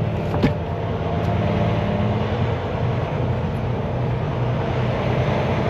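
Semi truck's diesel engine running with a steady low drone, and a single sharp click about half a second in.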